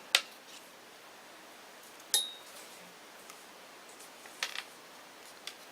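A few sharp clicks and knocks from a small portable speaker being handled. The one about two seconds in has a brief metallic ring.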